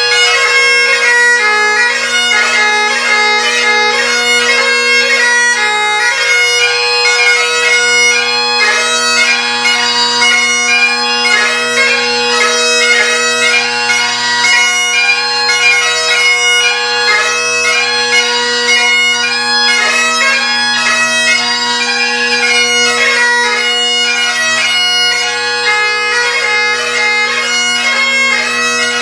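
Set of MacLellan Revelation Great Highland bagpipes playing a tune: a Shepherd chanter with a Chesney reed carries a quick, ornamented melody over the unbroken hum of drones fitted with Kinnaird Evolution reeds.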